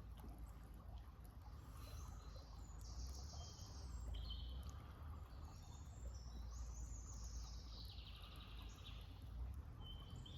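Songbirds singing several high, quick trilled phrases, one falling in pitch near the end, over a faint steady outdoor rumble.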